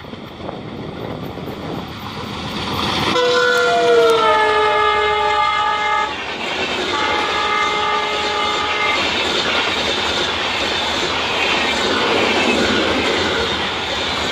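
WDM3D diesel locomotive's multi-tone horn: one long blast about three seconds in that drops slightly in pitch, then a second, steady blast. Behind it the train draws closer, and it ends in the steady rumble and clickety-clack of passenger coaches running past at speed.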